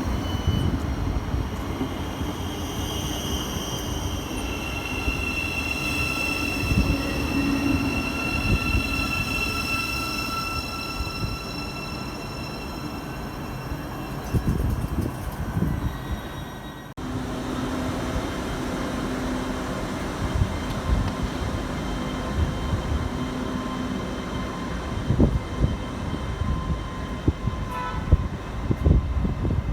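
Passenger train pulling into a station: a squeal and whine that fall slowly in pitch as it brakes. After a cut, a steady hum with a run of clanks near the end.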